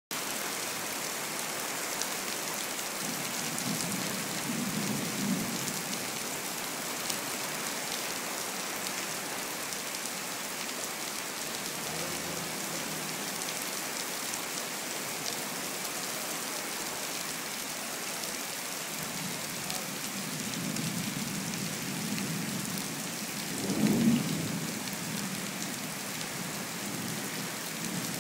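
Heavy rain pouring steadily during a thunderstorm, with low rolls of thunder rumbling a few seconds in and again near twenty seconds, the loudest clap rolling near the end.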